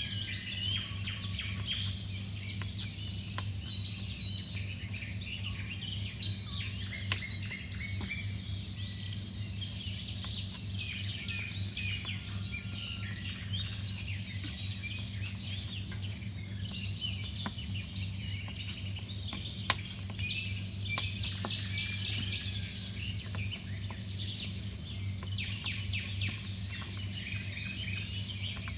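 A dense chorus of many small birds chirping and twittering over a steady low hum, with an occasional sharp click.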